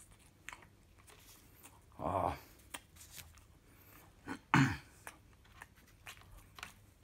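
Mouth chewing of a bacon-and-cheese burger, with small wet mouth clicks throughout, and two short throaty sounds from the eater, one a little after two seconds in and a louder one at about four and a half seconds.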